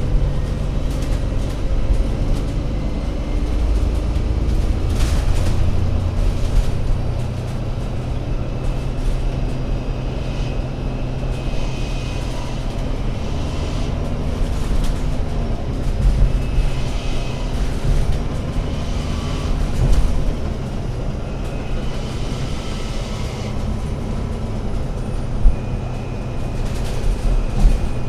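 Alexander Dennis Enviro500 MMC Euro 6 double-decker bus running, a steady low engine and drivetrain rumble whose pitch slides as the bus changes speed. Faint high whines come and go in the middle, and there is one sharp knock near the end.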